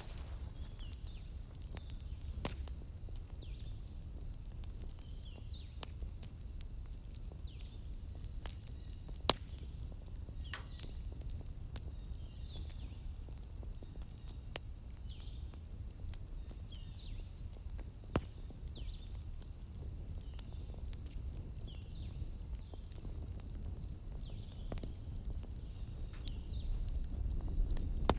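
Wood fire in a fireplace crackling, with a handful of sharp single pops over a steady low rumble. Behind it a steady high trill and repeated short falling calls run on.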